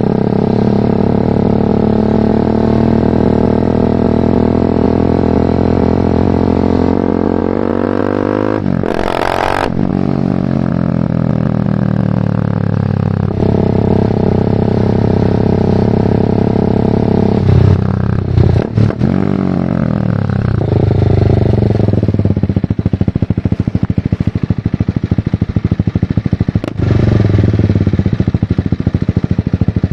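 BMW G310R's single-cylinder engine running through a full Mivv aftermarket exhaust while riding. It holds steady revs, then the pitch falls as the bike slows, with gear changes in the middle. A brief loud whoosh comes about nine seconds in. In the last third it runs at low revs with the separate firing pulses audible, picking up again near the end.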